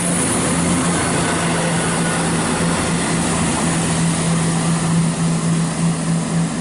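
Class 170 Turbostar diesel multiple unit running away from the station, a steady diesel drone with a held low hum.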